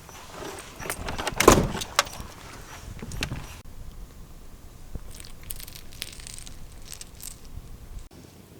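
A few knocks and clatters of things being handled, the loudest about one and a half seconds in, then a quieter stretch with faint scattered clicks.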